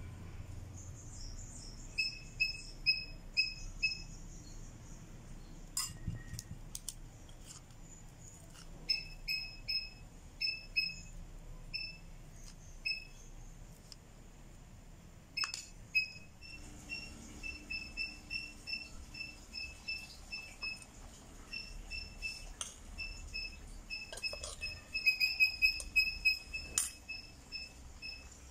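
A bird repeating a short high chirp about three times a second in bouts, loudest near the end. A few sharp clicks of a metal spoon against the spice tub and bowls are heard between the chirps.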